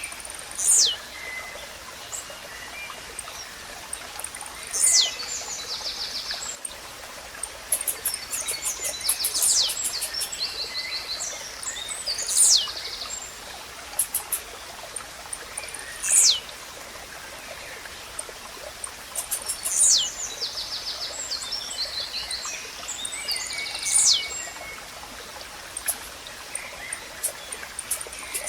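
Blue-black grassquit (tizil) singing its short song, a high note sweeping down in pitch, repeated about every four seconds. Under it runs the steady sound of a flowing stream, with rapid trills from other birds between the songs.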